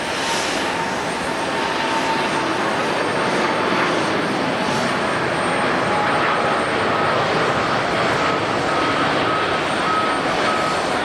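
Jet airliner engines running with a loud, steady noise, with a thin whine from the engines above it that shifts higher about halfway through.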